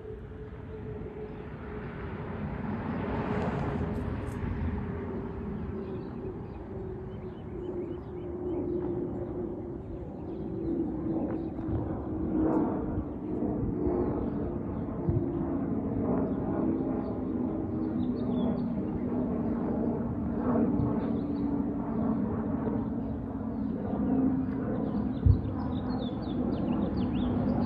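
Piston-engined propeller aircraft droning overhead in a flyover, their engine note slowly falling in pitch as they pass. A single short knock comes near the end.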